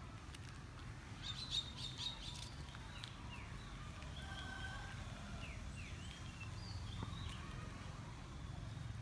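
Animal calls: short high chirps and quick falling squeaks, a cluster of them about a second in and more scattered through the middle, over a steady low outdoor rumble.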